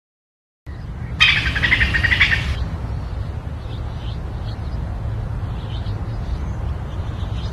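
Small birds chirping in short, scattered calls over a steady low rumble, after a brief silence at the start. About a second in, a loud rapid rattling burst lasts about a second and a half, then cuts off abruptly.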